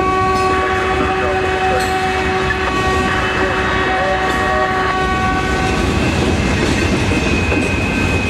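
Hopper cars of a CSX freight train rolling past on the rails, a steady rumble of wheels on track. A steady high ringing tone sits over the wheel noise and fades about six seconds in, after which a thinner, higher tone carries on.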